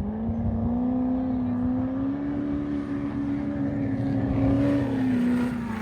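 Off-road vehicle engine held at high revs. Its pitch climbs over the first couple of seconds, stays up, then eases off about five seconds in.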